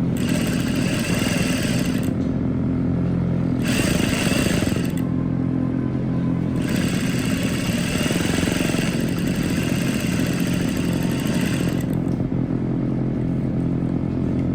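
Sewing machine stitching a seam in three runs, the longest about halfway through, over a steady motor hum that carries on between the runs.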